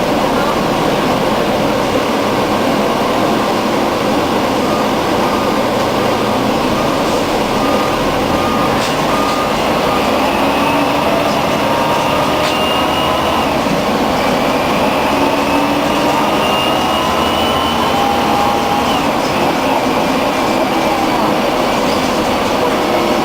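Scania N113 bus's 11-litre straight-six diesel and drivetrain running under way: a steady loud drone with whines that rise in pitch through the middle as the bus gathers speed.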